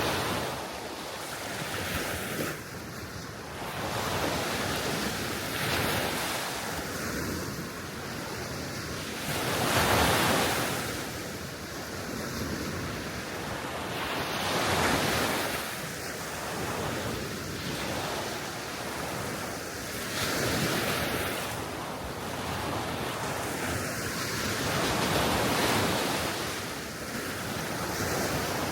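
Small waves breaking and washing on the Baltic Sea shore, swelling and fading every few seconds, with wind gusting over the microphone.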